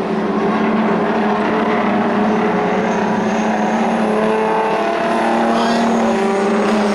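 Racing semi trucks' diesel engines running hard on a dirt oval, a loud steady drone with several engine notes overlapping.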